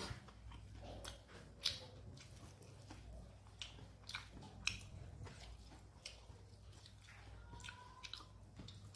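Close-up mukbang chewing of rice: irregular wet mouth clicks and smacks, a couple of sharper ones near the middle.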